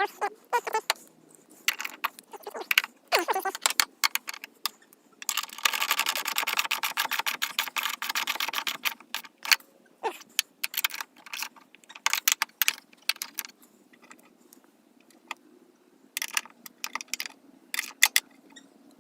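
Metal hand tools clinking and clicking during work on a truck door's hinges, with about four seconds of rapid, even clicking in the middle.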